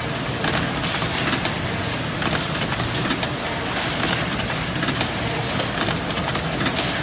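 Steady hissing noise with scattered small crackles from the heating furnace running with its smoke-purifying system switched off.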